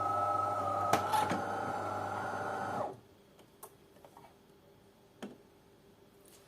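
DeLonghi coffee machine's pump running with a steady hum as it rinses residue out of the pipe before brewing, then cutting off about three seconds in. Two short clicks come about a second in.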